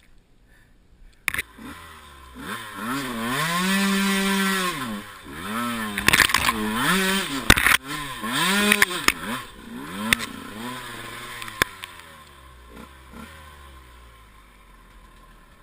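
Enduro motorcycle engine revving hard in repeated swells, its pitch climbing and falling several times, with a few sharp knocks in the middle, then dropping back toward idle near the end.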